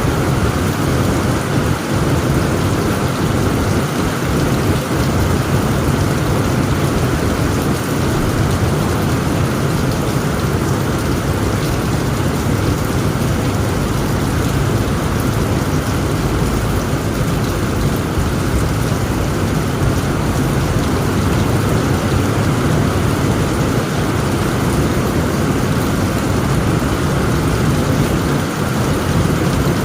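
Heavy rain drumming steadily on a tent roof, with a continuous low rumble of thunder underneath.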